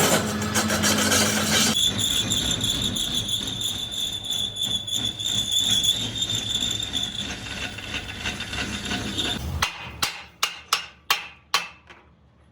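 A power tool working on the steel of a truck rim, running steadily with a high whine, stops suddenly about ten seconds in; then about seven quick hammer blows on metal follow, each ringing briefly.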